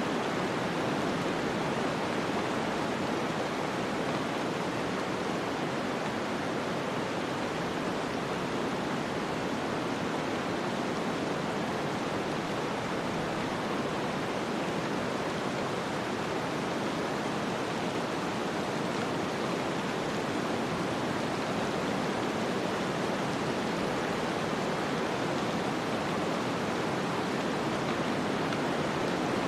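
Snowstorm ambience: a steady, even rush of wind-driven snow with no gusts or separate events.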